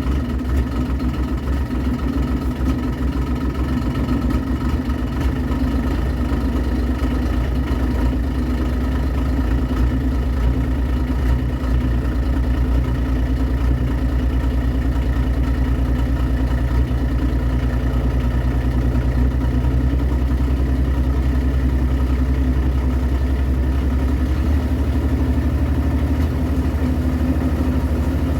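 Diesel engine of a Mule utility vehicle idling steadily while it warms up, running a little bit rough.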